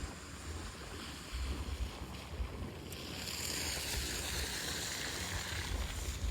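Wind buffeting the microphone in a low, uneven rumble, with a rushing hiss that swells up about halfway through and fades near the end.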